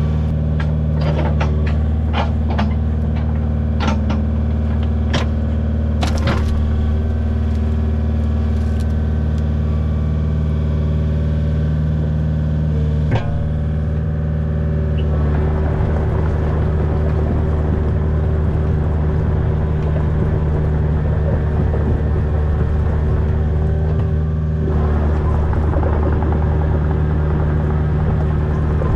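Kubota U55 mini excavator's diesel engine running steadily, with a series of sharp knocks and clanks over the first thirteen seconds or so. From about fifteen seconds in the sound turns rougher and busier as the machine works.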